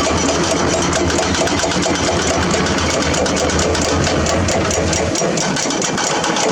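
Diesel engine of heavy construction machinery running steadily with a rapid, even clatter. Its low hum drops away about five seconds in.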